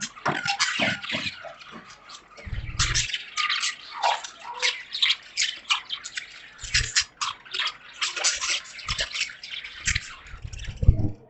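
Pet budgies chirping and chattering in a busy, rapid warble of short clicks and squeaks, with a few low thumps.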